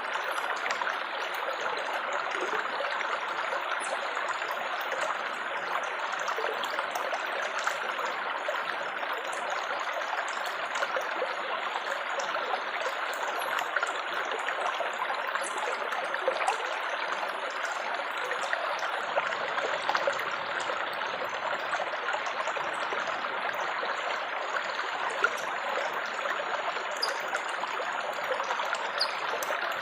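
Flowing water trickling and babbling steadily, with fine splashes of droplets scattered through it.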